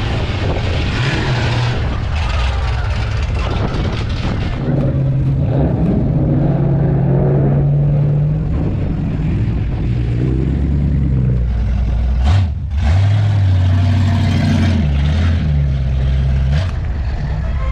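Classic American car engines running and revving with a deep, steady rumble, in a run of short clips that change abruptly several times.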